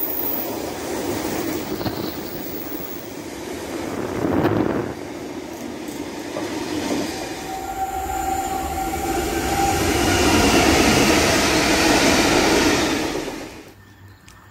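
Freight train running past at speed: a steady rumble and rattle of wagons on the rails. Then an approaching train grows louder, with steady high tones over the rail noise, before the sound cuts off abruptly near the end.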